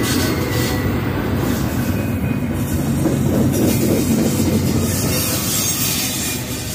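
Train running on the rails: a steady, loud rumble with a hiss over it.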